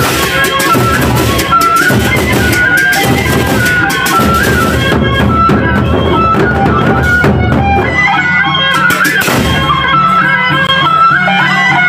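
Gendang beleq ensemble playing: large drums and clashing cymbals beat under a high, wavering wind-instrument melody. About eight seconds in the drumming thins out, leaving the melody over steady lower sustained tones.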